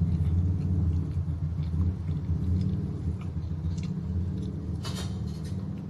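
Steady low hum with faint chewing clicks over it, and one louder crunch from a bite of crispy fried chicken about five seconds in.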